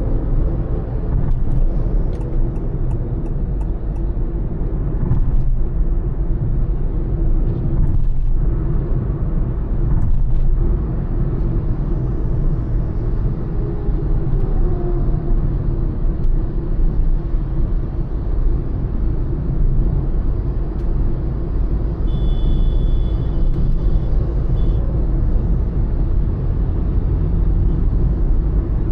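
Honda Elevate SUV cruising on a highway: a steady low rumble of engine, tyre and road noise from its 1.5-litre four-cylinder petrol engine at a constant speed. A brief faint high-pitched tone sounds about three-quarters of the way through.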